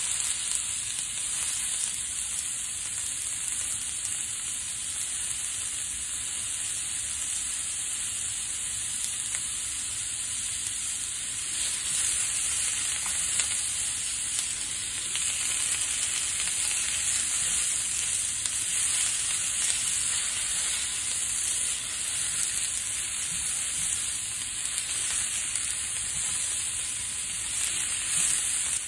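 Sliced onions and sausage links sizzling steadily in a hot nonstick frying pan, stirred and turned now and then with a plastic spatula.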